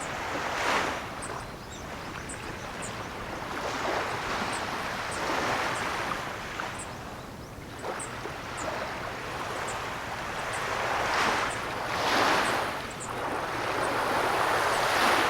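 Ocean waves breaking and washing on the shore, swelling and ebbing in repeated surges of foamy rush, with the loudest surges near the end. Faint short high ticks are scattered throughout.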